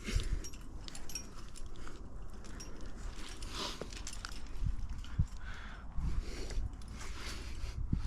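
A climber breathing hard in short, hissing breaths while working up the rock, with scattered knocks and scrapes of hands, shoes and gear.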